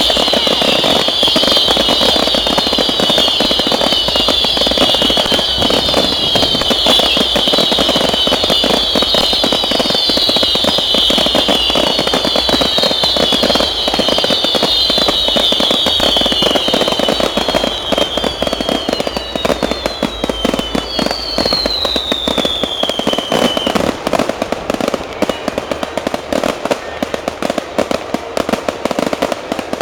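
Fireworks going off in a display: many overlapping whistles, each falling in pitch, over dense crackling and popping. The whistles thin out about two-thirds of the way through, with one last lone falling whistle, and the crackling carries on after it.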